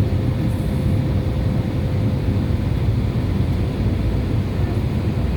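Steady low rumble inside an airliner's cabin as it taxis after landing, with a faint steady hum running under it.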